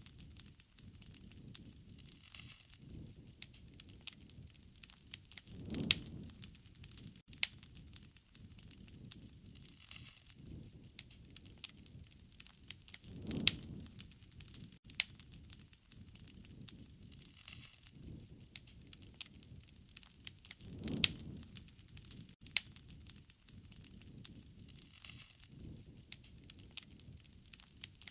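Wood fire crackling and popping: sharp snaps of burning wood over a steady hiss, with a low rushing swell about every seven seconds.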